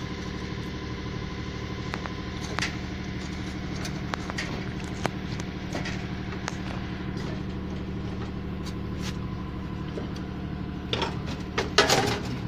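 Steady engine-like hum running throughout, with scattered light clicks and a cluster of louder metallic clatter near the end.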